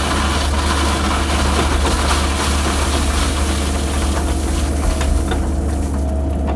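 Excavator diesel engine running steadily with a deep, even hum.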